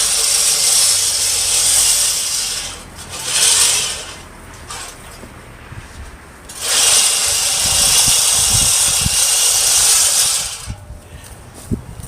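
Greenworks 20-inch manual reel push mower being pushed, its spinning blade reel giving a loud whirring hiss. It comes in three runs: about three seconds, a short burst, then about four seconds from near the middle, with a few low knocks between.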